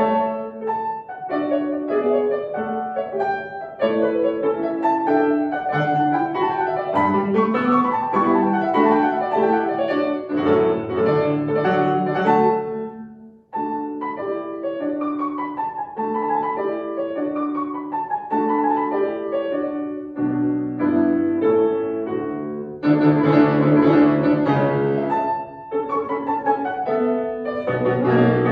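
Solo piano playing a classical piece, with a brief break about halfway through before the playing resumes.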